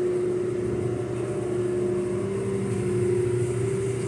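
A machine's motor running with a steady, unchanging hum.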